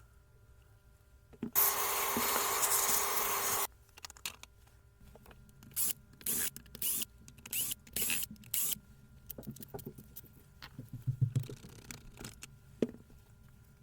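Pressurised spray hissing: one steady blast of about two seconds, then about six short blasts in quick succession, with small clicks and knocks of parts being handled.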